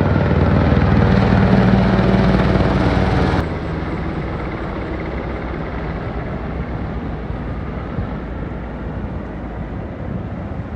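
Helicopter running close and loud, which cuts off abruptly about a third of the way in. A quieter steady rushing noise remains after it.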